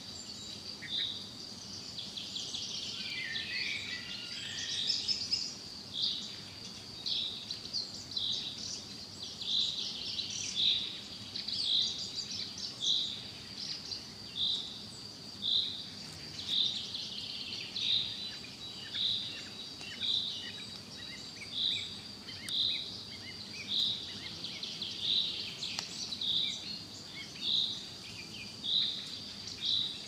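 A bird repeating a single short chirp about once a second over a steady high background hum, with a brief falling warble a few seconds in.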